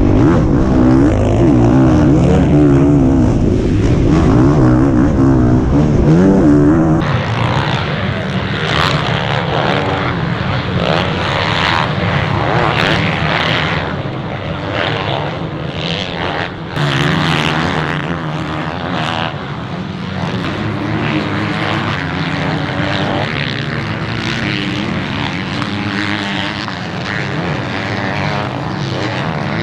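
Motocross bike engines racing, revving up and down through the gears. About seven seconds in the sound changes abruptly to a noisier, gustier mix, with engine pitch rising and falling again later.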